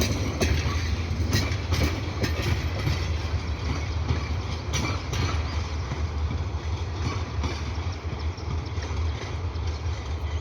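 Passenger train running along the track: a steady low rumble with scattered clicks of the wheels over the rails.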